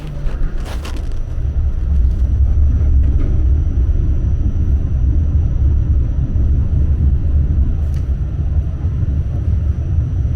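Subway train running on the elevated track, a loud low sound that builds over the first two seconds and then holds steady, with a short hiss about half a second in.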